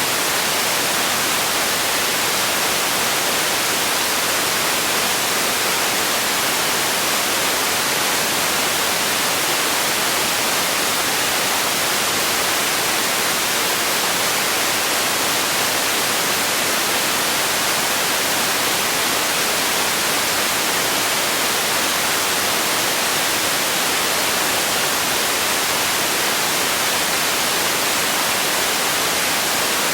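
Steady relaxation noise for sleep: an even, unchanging hiss like white noise, brightest in the treble and with little bass.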